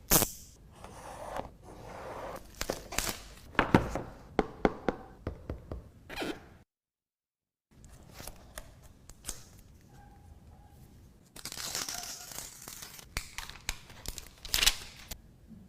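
Smartphone box packaging being opened by hand: plastic wrap and film tearing and crinkling, with clicks and knocks as the box is handled. The sound cuts out completely for about a second around the middle, and a longer tearing stretch comes later.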